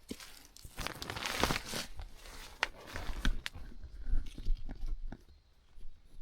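Rustling and crunching with scattered sharp clicks and knocks, densest in the first two seconds, from handling a tarp and gear while pitching it.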